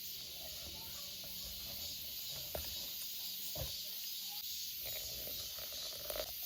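A steady, high-pitched chorus of summer insects, with a couple of light knocks about two and a half and three and a half seconds in.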